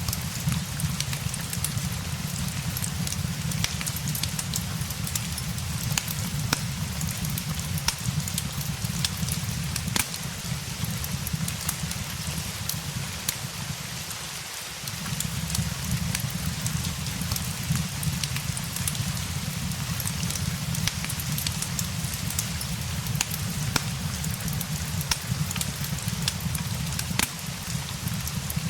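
Steady rain mixed with the scattered sharp pops and crackles of a wood fire, over a low steady rumble that dips briefly about halfway.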